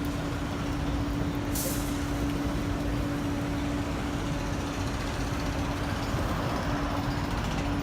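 Steady motor rumble with a constant droning hum, and one short, sharp hiss about one and a half seconds in.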